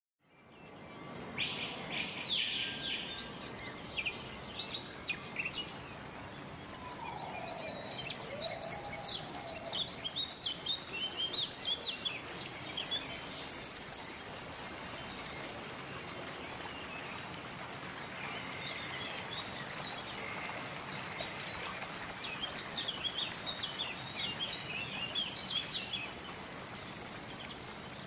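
Several birds chirping and singing over a steady outdoor background hiss, with a whistled call that rises and falls about a second and a half in.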